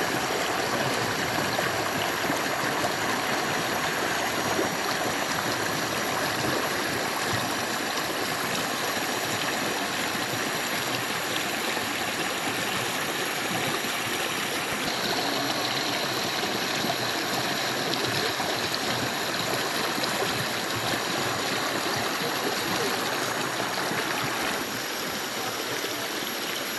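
Stream water flowing and gurgling steadily, with a thin, steady high-pitched whine above it.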